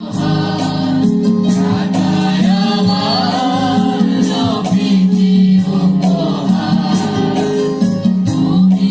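A choir singing a Christian hymn with accompaniment and a steady beat of about two strokes a second.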